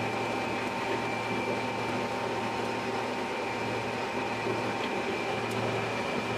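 Combine harvester running while cutting wheat: a steady mechanical drone with a low hum and a couple of steady whining tones above it.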